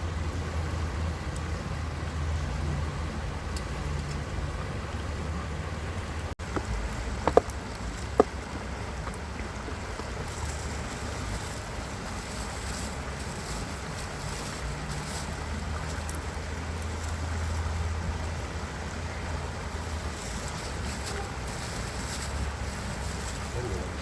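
Steady rush of flowing stream water with wind buffeting the microphone as a low rumble. Two short sharp clicks come about seven and eight seconds in.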